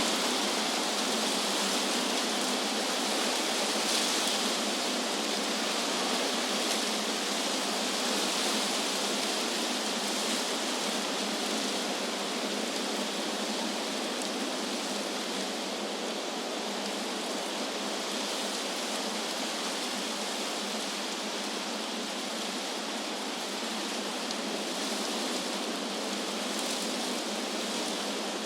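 Wind rushing through tree leaves: a steady hiss that swells slightly now and then.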